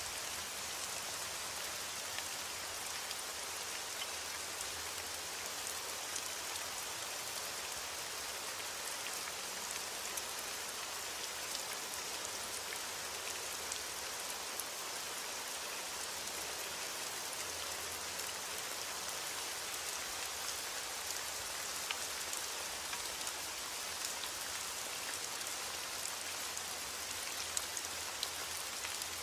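Heavy rain on a window: a steady, even hiss with scattered faint ticks.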